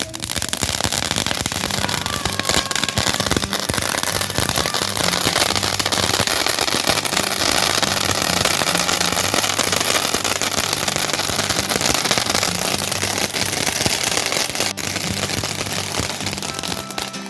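A firework crackling and hissing steadily as it burns, a dense rapid crackle that starts abruptly and dies down near the end.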